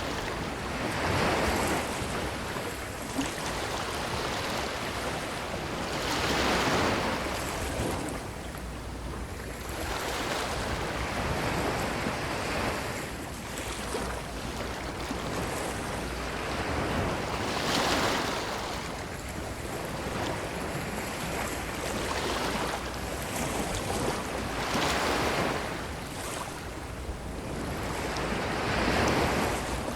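Ocean waves washing onto a beach, a steady wash that surges as each wave breaks, about every five or six seconds.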